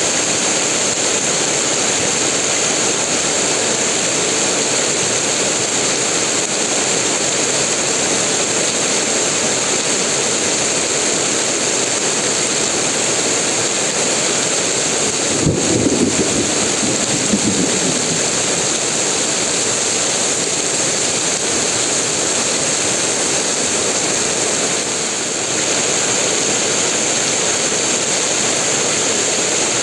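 Heavy rain pouring steadily, a dense, even hiss. About halfway through, a short low rumble rises over it and fades within two or three seconds.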